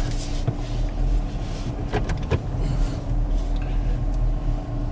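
Car interior noise with the engine idling: a steady low rumble and a constant hum, with two short clicks about two seconds in.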